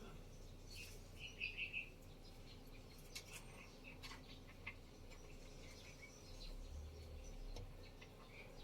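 Faint bird chirping, with a quick run of three chirps about a second and a half in, over scattered light clicks and taps and a low steady hum.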